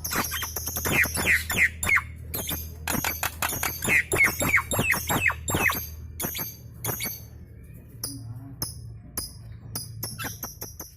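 Nias hill myna chattering: rapid sharp clicks and harsh calls with runs of quickly falling whistles about a second in and again around four to six seconds, mixed with high repeated chip notes of other birds calling along.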